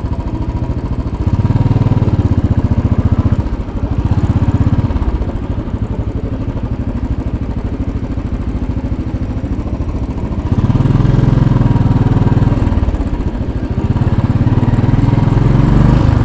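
2010 Royal Enfield Bullet 500's single-cylinder engine running on the move with a fast, even pulsing beat. It gets louder in three stretches, about a second in, around ten seconds in and again near the end, as the throttle is opened.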